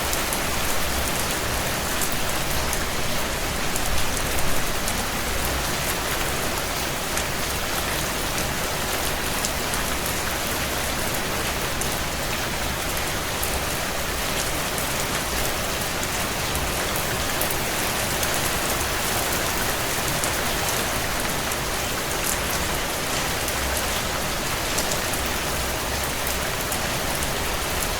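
Heavy, steady rain on window glass, with sparse faint crackling pops from a wood fire in a fireplace.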